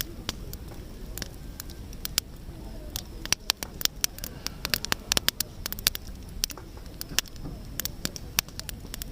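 Wood campfire crackling: many sharp, irregular pops and snaps, thickest in the middle, over a steady low rumble of the burning fire.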